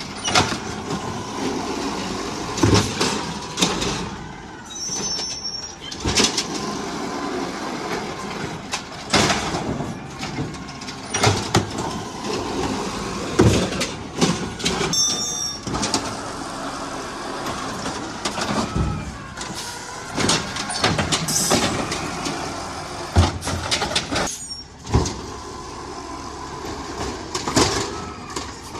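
Garbage truck working, its engine running under many sharp clanks and bangs that come at irregular intervals.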